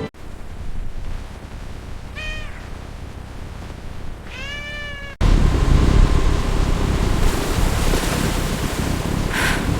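A cat meows twice over a faint steady hiss: a short call about two seconds in and a longer one a couple of seconds later. About five seconds in, the sound cuts abruptly to a much louder rushing noise with a deep rumble.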